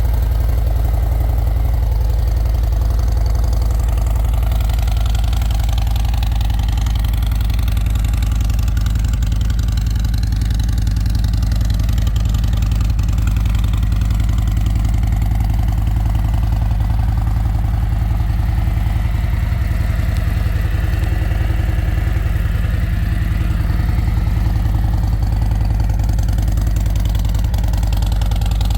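Harley-Davidson Road Glide V-twin idling steadily through freshly fitted Rinehart DBX45 4.5-inch slip-on mufflers.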